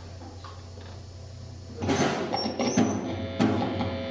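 Steady electrical hum through a PA, then about two seconds in, loud crackling and sharp pops with a brief high whistle, settling into a steady buzz near the end: the sound of a loose connection at the back of the audio gear being tapped while hunting an intermittent fault.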